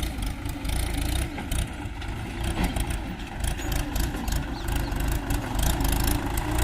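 Mahindra 575 DI tractor's four-cylinder diesel engine running steadily: a low drone with a rapid clatter over it.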